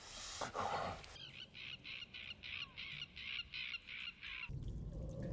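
A bird's rapid run of harsh, evenly spaced calls, about four a second for roughly three seconds, after a second of rustling; a low rumble comes in near the end.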